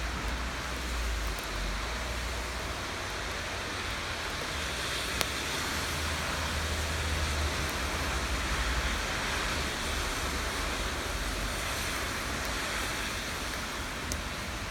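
Steady rain falling as an even hiss, with a low rumble underneath and a couple of single sharp drip-like ticks, about five seconds in and near the end.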